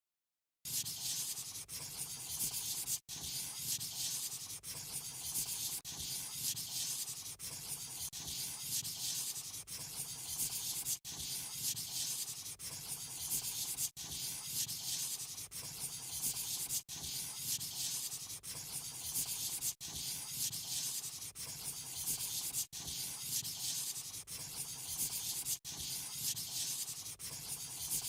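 A pen tip scratching across paper in quick repeated back-and-forth colouring strokes, starting about half a second in, with brief breaks every few seconds.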